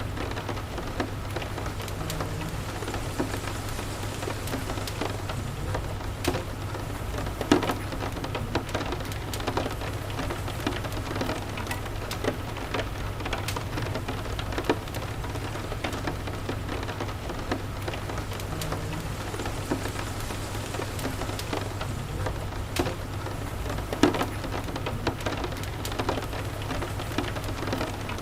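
Steady rain mixed with a wood fire crackling: scattered sharp pops, two of them much louder, over a low steady rumble.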